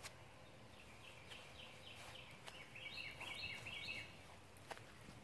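A songbird singing faintly: a run of short, falling whistled notes, a few a second, that grows quicker and busier about three seconds in.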